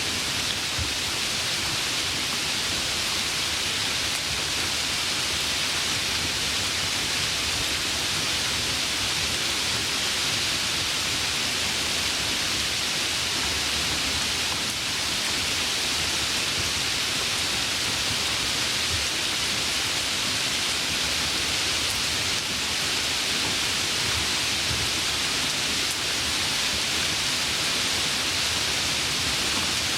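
Steady rain falling, an even hiss with no thunder or distinct drops, played as a relaxation white-noise track.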